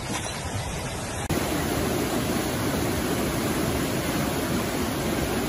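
Steady rush of fast-flowing floodwater. About a second in it cuts abruptly to a louder, fuller rush.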